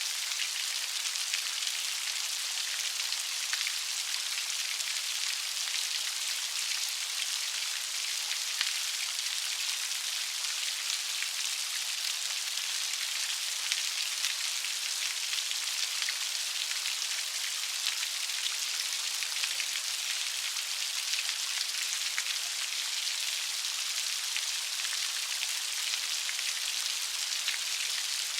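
Steady light rain: an even high hiss of falling rain with fine patter of drops, unchanging throughout.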